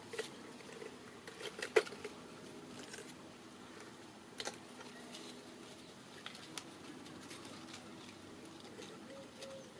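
Scattered light taps, clicks and rustling as a homemade fig picker cut from a plastic bottle is worked around a fig among the leaves. The sharpest tap comes about two seconds in.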